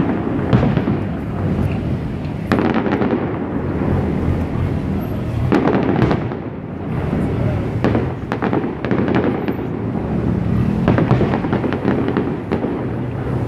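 Fireworks display going off continuously: repeated booms of bursting shells, a dense cluster of them near the end, over a steady crackle and rumble.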